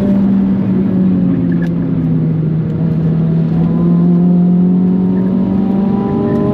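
Big-turbo Mitsubishi Colt R engine running steadily under way. Its pitch sags slightly for a couple of seconds, then climbs back.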